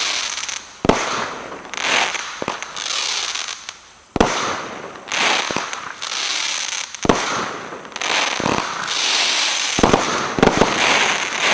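Consumer aerial firework cake firing in sequence: sharp booming reports every second or two, each followed by a spell of crackling and hissing as the shots break in the air.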